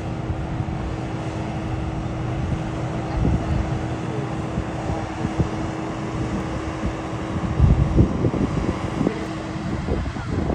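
Open-air airshow ambience with gusts of wind on the microphone, loudest about eight seconds in, and a steady low hum that stops near the end. No engine is heard, because the aerobatic glider overhead has none and flies almost silently.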